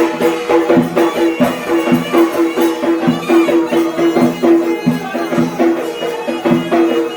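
Yemeni mizmar, a double-pipe reed pipe, playing a fast traditional melody over a steady, pulsing low note, with drum strokes keeping the beat.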